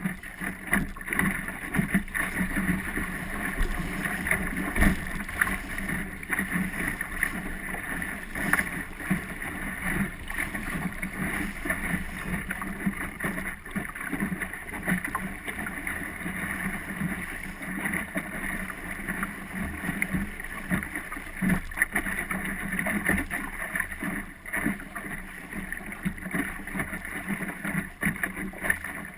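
Wind on the microphone and water splashing and slapping against a small boat's hull, with frequent short knocks.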